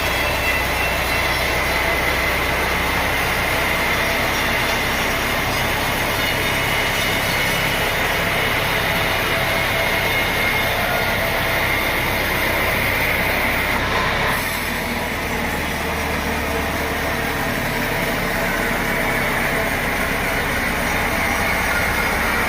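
Sawmill machinery running steadily: dense mechanical noise with a continuous high whine. The sound shifts briefly about two-thirds of the way through.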